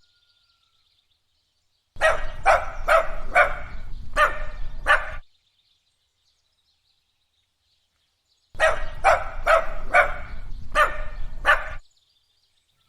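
Dog barking in two bouts of about five to six barks each, the first starting about two seconds in and the second past the middle, with a silent pause between them.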